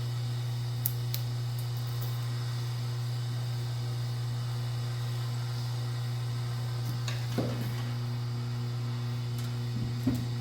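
A steady low hum, with a few faint clicks about a second in, a brief light handling noise past the middle, and small knocks near the end.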